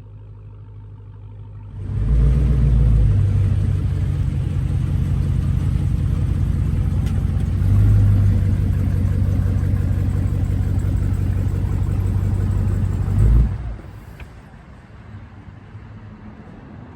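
Dodge Hellcat's supercharged 6.2-litre V8, with its mid-muffler and resonators deleted, idling with a low rumble. About two seconds in it turns suddenly loud and deep and stays up for about eleven seconds, then drops abruptly back to a quieter idle.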